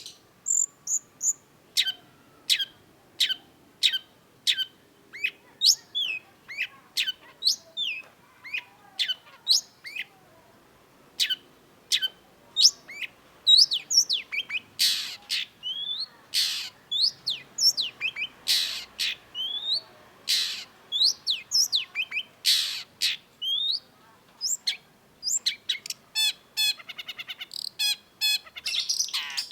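Long-tailed shrike (cendet) singing: a fast, continuous series of short, sharp, downward-sweeping chips and whistles, with a run of rapid, quickly repeated notes near the end.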